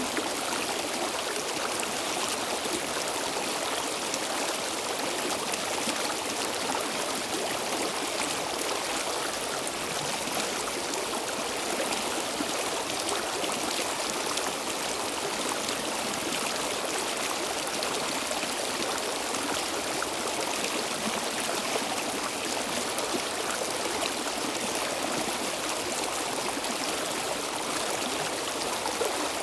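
Stream water flowing steadily over rocks, a constant rushing babble.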